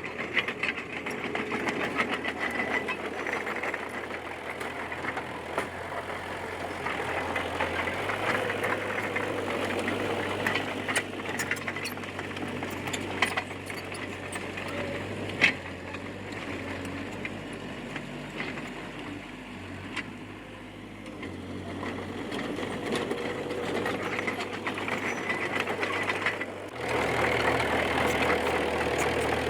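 Bulldozer's diesel engine running under changing load as it pushes fill, with scattered metallic clanks and clicks from the tracks and blade. The engine note shifts about a quarter of the way in, eases off past the middle, and the sound grows suddenly louder near the end.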